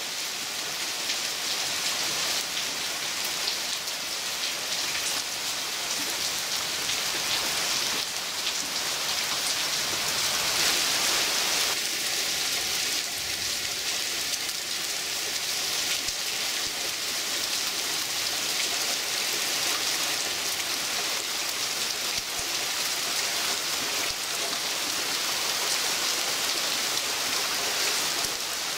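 Heavy rain pouring steadily on leaves and surfaces in a thunderstorm downpour.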